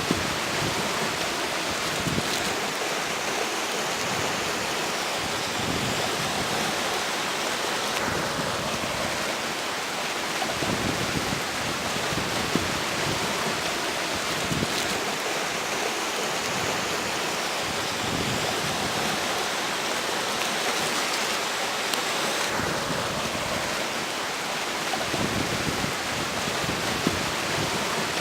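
Steady rush of a flowing river with strong wind blowing over it, the wind swelling and easing in irregular gusts.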